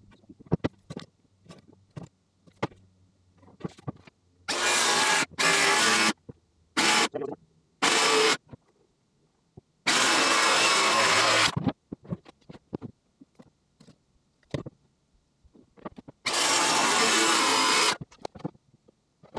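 A power tool running in six short bursts, the longest about two seconds, with clicks and knocks of handling between them.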